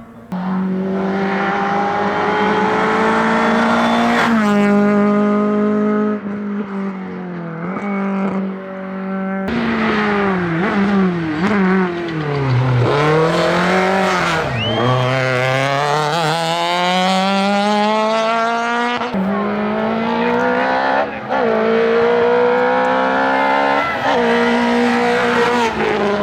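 Hillclimb race car engine at full attack, revving hard up through the gears and dropping back on the shifts and braking, over and over.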